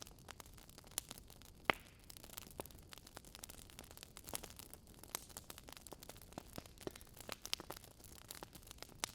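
Wood fire in a fireplace crackling: irregular sharp pops and snaps over a faint steady hiss, the loudest pop a little under two seconds in.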